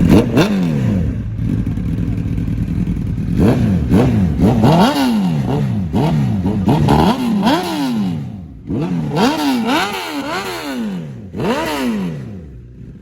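Honda CBR1000RR Fireblade's inline-four engine being revved in a string of quick throttle blips, its pitch rising and falling with each one, before dropping away near the end.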